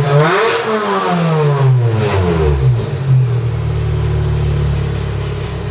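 Supercharged 1.6-litre four-cylinder of an R53 MINI Cooper S through an aftermarket exhaust. The revs rise briefly, fall away over a couple of seconds, and then hold a steady note.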